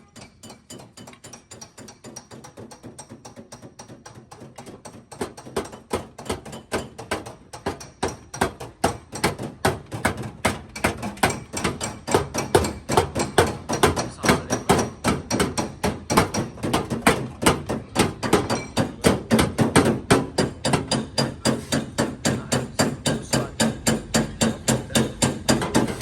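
Hammer tapping out a dent in the sheet metal of a Chevrolet Optra's front body panel: rapid, even knocks, several a second, growing louder about five seconds in.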